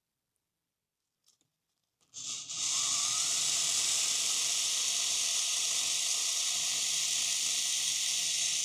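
A small CD motor in an OO gauge model Lima Class 117 DMU running on a rolling road. It starts about two seconds in with a brief rising whine as it spins up, then holds a steady high hissing whir and cuts off near the end. This is a test run to check the motor's running direction after the wiring.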